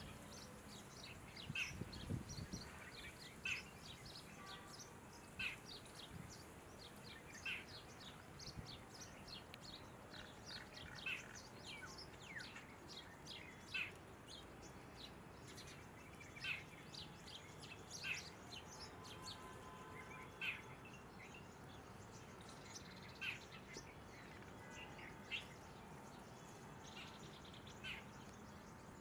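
Birds calling in short, sharp chirps that repeat every second or two over a steady outdoor hiss.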